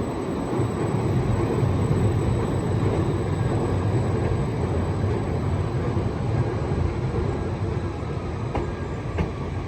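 Greater Anglia Class 745 electric train (a Stadler FLIRT) moving along the platform, a steady low rumble of wheels and traction equipment. It swells over the first couple of seconds, then eases slightly.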